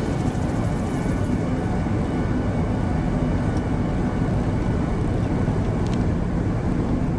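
Steady in-cab engine and road rumble of a 1965 Ford F-100 pickup driving at road speed on new tires.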